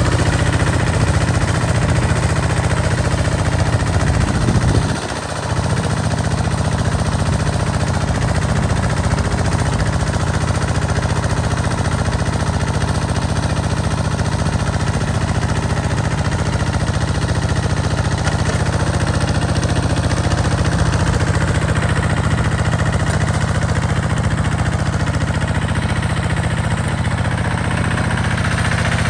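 Small farm tractor engine running steadily while the tractor harrows a field, with a brief drop in level about five seconds in.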